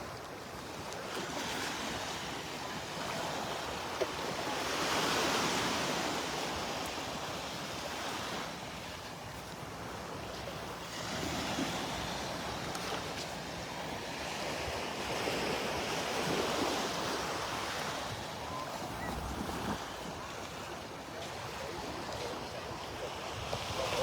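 Gulf of Mexico surf washing onto the beach, swelling and fading every few seconds, with wind buffeting the microphone.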